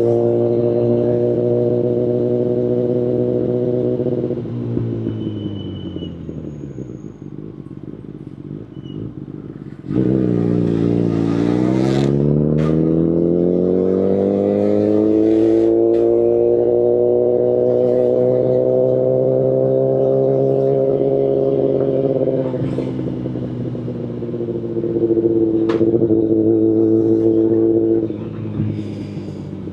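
2019 Kawasaki Ninja ZX-10RR's inline-four engine through an Akrapovic Evolution Line carbon full exhaust, heard from the bike while riding. It holds steady revs at first, then the revs fall away and it runs quieter. About ten seconds in the throttle opens and the revs climb steadily for several seconds, level off, and then drop. After that it holds steady again and eases off once more near the end.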